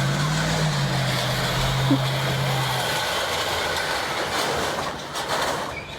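Steady mechanical noise with a low, even hum that stops about three seconds in.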